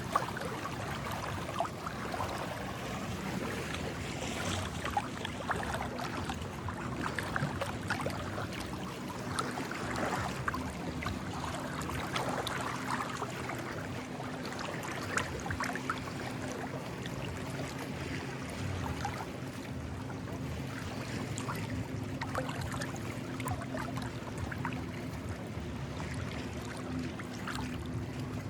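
Small waves lapping and trickling among shore rocks, with scattered little splashes and crackles, over a steady faint low hum.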